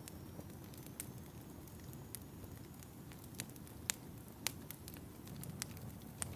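Wood fire crackling in a fireplace: a soft steady low rumble with scattered sharp pops, the two loudest a little past the middle.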